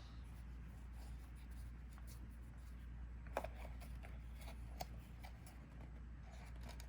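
Faint handling of trading cards: soft rustles and a few light clicks, the sharpest about three and a half and five seconds in, over a low steady hum.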